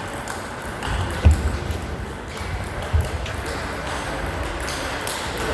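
Table tennis ball struck back and forth in a rally, a few sharp clicks of ball on bat and table, the loudest about a second and three seconds in, over the echo of a hall.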